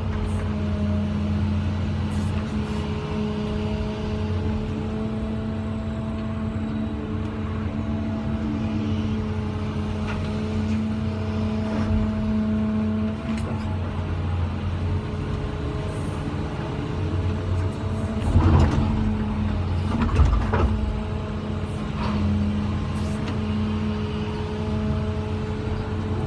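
CAT 345 hydraulic excavator running steadily with a low engine drone and fainter steady higher tones. Two loud thuds come about 18 and 20 seconds in.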